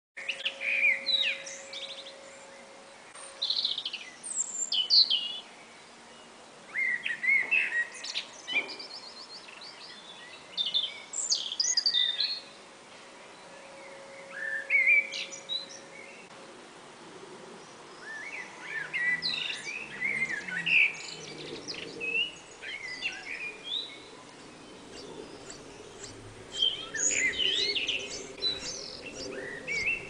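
Small birds chirping and twittering in bursts of quick, high calls, each burst a second or two long with short pauses between.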